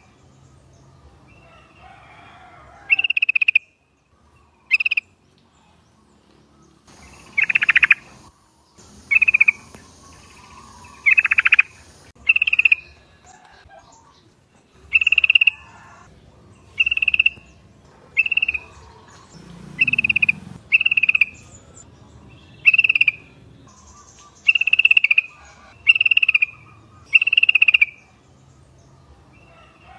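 Several yellow-vented bulbuls (trucuk) calling: a string of short, high chattering calls, about one every one to two seconds.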